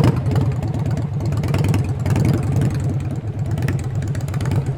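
A car engine idling steadily, a low, even running note with fine regular pulsing.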